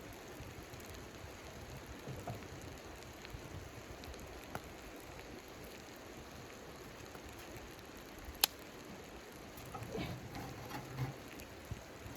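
Steady pattering hiss of wind-driven snow on hot-tent fabric, with a few sharp crackles from the wood stove's fire. One loud crack comes a little past the middle and a cluster of small ones near the end.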